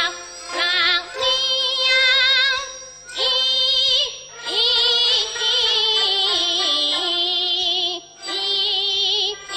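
Teochew opera singing: a high voice holds long notes with a wide, even vibrato, in phrases that break about three seconds and eight seconds in, over instrumental accompaniment.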